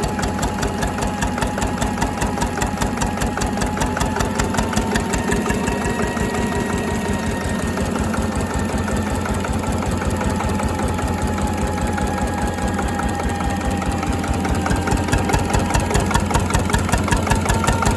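Slavia 8 hp stationary diesel engine running steadily with an even, fast beat, getting a little louder near the end.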